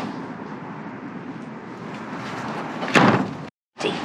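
A single loud slam about three seconds in, over steady outdoor noise.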